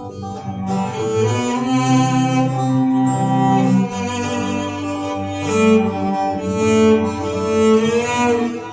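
Instrumental break in a slow ballad: a bowed string instrument, cello-like, plays a melody of long held notes.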